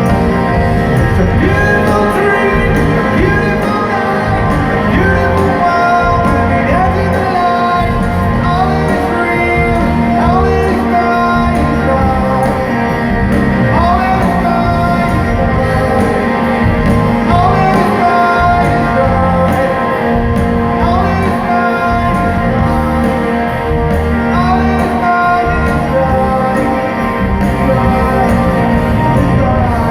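Rock band playing live in a large hall, with sung vocals over a steady drum-and-bass beat and guitars.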